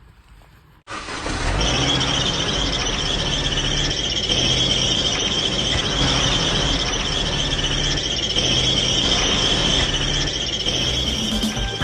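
A car making a loud, steady, high-pitched squeal over a low rumble, starting suddenly about a second in.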